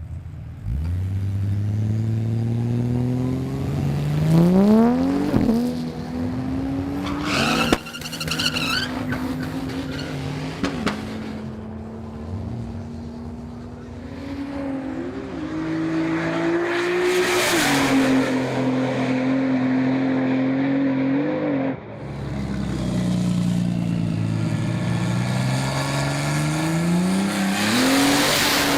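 Turbocharged Ford Barra 4.0-litre straight-six revving and accelerating hard, its pitch climbing in repeated sweeps and then holding. There is a short high wavering squeal about eight seconds in, and the sound breaks off sharply just before twenty-two seconds before picking up again.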